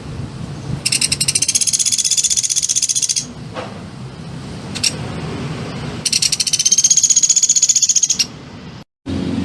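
Songbird masteran recording: two long, high, rapid trills, each about two seconds, with a short gap between them and a brief break near the end.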